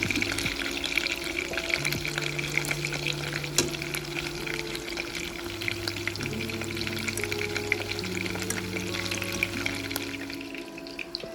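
Batter-coated boneless chicken pieces shallow-frying in hot oil in a pan, a steady crackling sizzle that eases off near the end.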